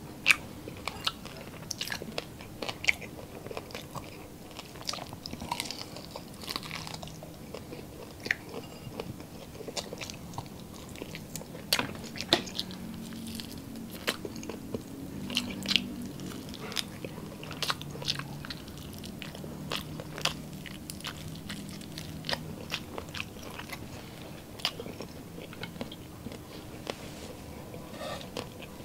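Close-up eating sounds of a person chewing and biting grilled skewered meat, with sharp wet mouth clicks and smacks at irregular intervals.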